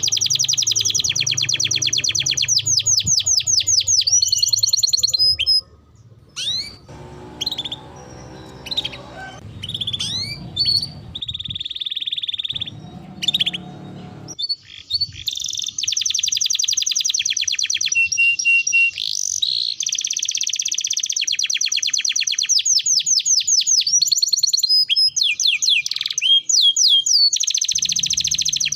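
Domestic canary singing: long, fast rolling trills broken by short chirps and rising whistled notes. The song drops to a quieter, broken stretch about six seconds in and comes back with long loud rolls about fifteen seconds in.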